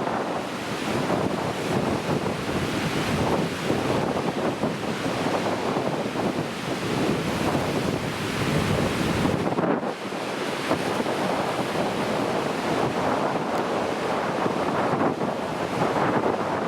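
Heavy ocean surf from a typhoon swell: large waves crashing and washing in continuously, with wind buffeting the microphone.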